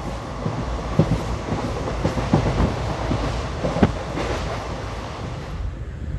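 Train running on the rails: a steady rumble and hiss with irregular clacks of the wheels over rail joints. The hiss drops away about five and a half seconds in.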